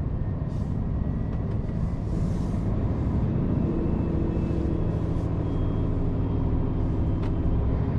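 Scania truck's diesel engine running under way, heard from inside the cab, its note getting a little stronger about halfway through.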